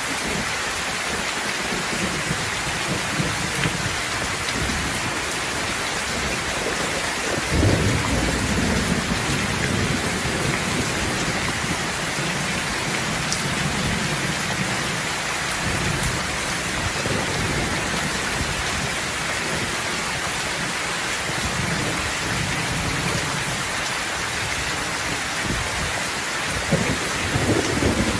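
Steady heavy rain with rolling thunder: a sudden low crack about a quarter of the way in that rumbles on for several seconds, and another rumble near the end.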